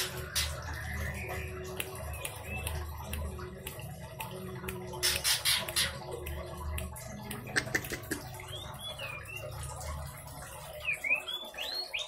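Short sweeping chirps of a songbird, a few in the first seconds and a cluster over the last few seconds. Under them runs a steady low hum, and a few sharp clicks about halfway through are the loudest thing.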